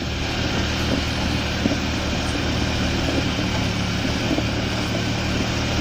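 Swamp buggy's small VAZ car engine running at steady revs as the vehicle drives, an even low engine note that does not rise or fall.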